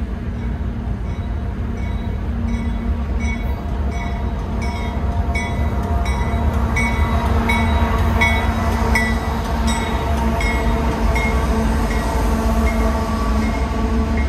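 Canadian Pacific freight train passing, led by two GE diesel-electric locomotives: a steady low engine rumble and hum that grows louder as the locomotives go by about halfway through, then carries on under the following freight cars. A regular high ding repeats about one and a half times a second throughout.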